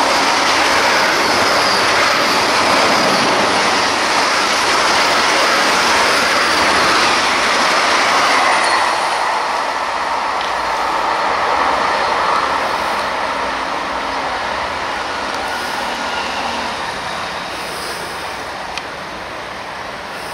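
22436 Vande Bharat Express electric trainset passing at speed, about 130 km/h: a loud, steady rush of wheels on rails. After about eight seconds it eases off and fades slowly as the train draws away.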